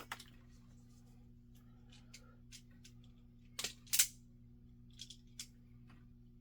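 Wire cutters snipping off wire ends: a few light clicks, then two sharp snips about three and a half and four seconds in, and more light clicks near the end, over a steady low hum.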